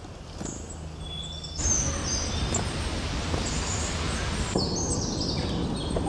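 Birds chirping in short, high, stepped calls over steady outdoor background noise. A louder, even rush of noise comes in about a second and a half in and drops away about four and a half seconds in.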